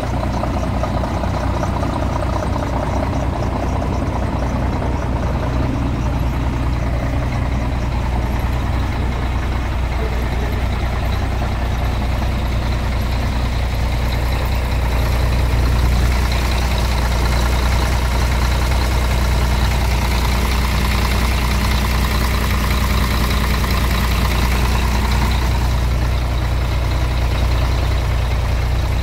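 Scania R 420 truck's six-cylinder diesel engine idling steadily, a little fuller from about halfway through.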